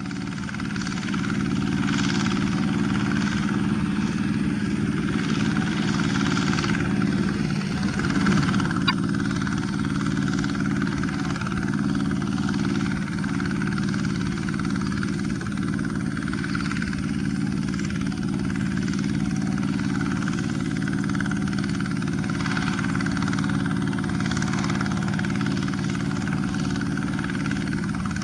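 Kubota single-cylinder diesel engine of a two-wheel rotary tractor, running steadily.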